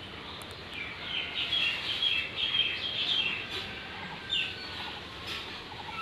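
Bird chirping: a quick run of short high notes from about a second in until three and a half seconds, then one more brief call a little later.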